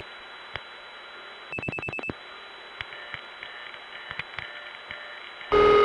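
Telephone trunk line with steady hiss and a few clicks. About a second and a half in comes a quick run of about six short 2600 Hz tone pulses: SF dial pulsing of a vacant-level digit into a step-by-step tandem. Scattered faint clicks follow on the line, and near the end a loud steady tone cuts in ahead of the intercept recording.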